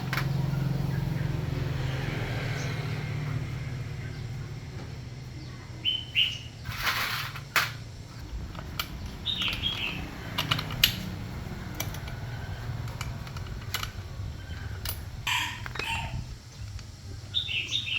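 Small birds chirping now and then, with scattered sharp clicks and knocks. A low hum is loudest at the start and fades over the first few seconds.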